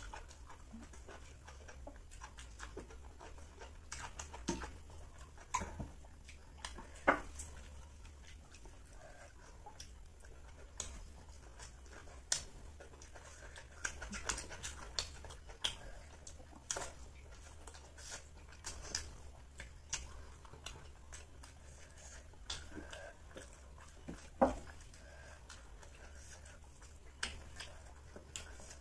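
People eating rice by hand: chewing and mouth smacks with scattered short sharp clicks, the sharpest about seven seconds in and again near the end.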